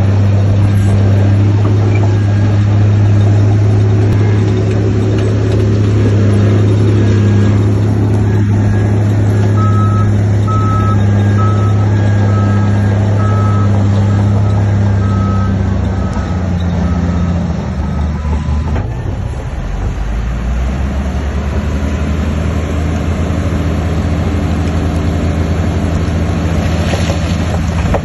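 Heavy diesel construction machinery running steadily under load. A reversing alarm beeps repeatedly for several seconds midway, and the engine note changes about two-thirds of the way in.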